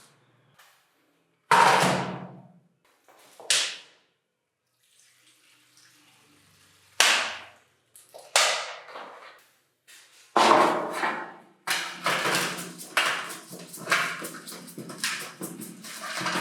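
Cleaning of a rubber part with water: several short bursts of rushing water, each fading out, then a run of quick repeated strokes of a few per second.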